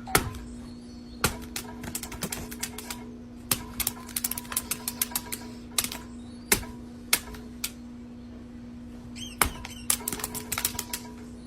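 A series of sharp, irregular clicks and taps, some spaced out and some in quick runs, over a steady low hum.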